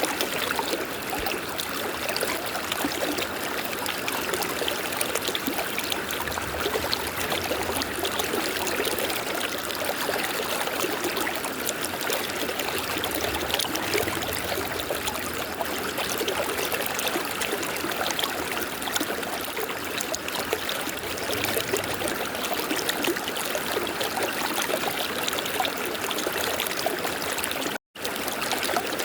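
Steady rush of flowing river water, even and continuous, with a brief cut to silence near the end.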